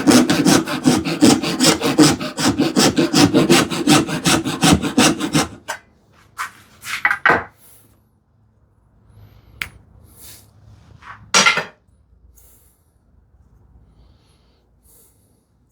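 Hand saw cutting through a small piece of wood in quick, even strokes, about five a second, roughing out the waste of a curved cut. The sawing stops about five and a half seconds in, followed by a few single strokes spread over the next several seconds.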